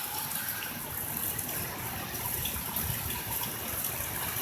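Heavy rain pouring steadily, with strong gusty wind.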